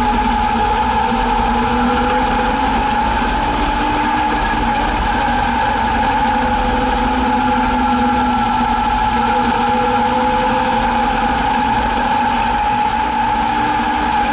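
A 1961 Chevrolet Biscayne's engine running steadily: an even, unchanging drone.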